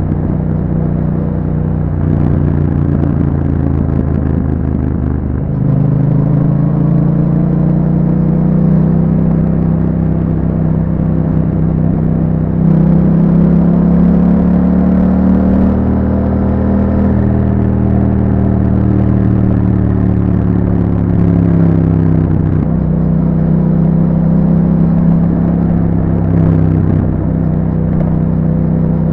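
2021 Yamaha MT-07's 689 cc parallel-twin engine running through an Akrapovic exhaust with a dB killer, heard while riding. Its note rises and falls steadily, with clear changes in engine speed about five, twelve and twenty-three seconds in.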